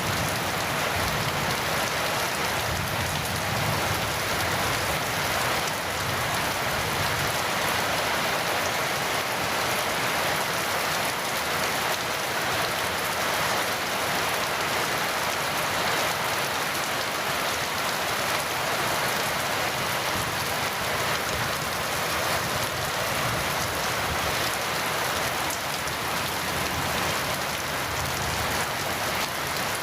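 Heavy rain falling steadily, an even hiss of rain on surfaces with no thunderclap.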